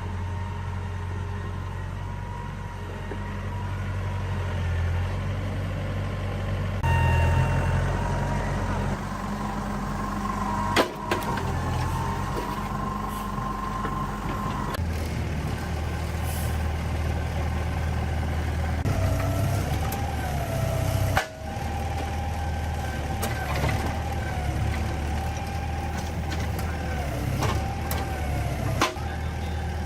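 Hitachi 05 mini excavator's diesel engine running steadily, with a whine that rises and falls in pitch at times. The sound changes abruptly several times.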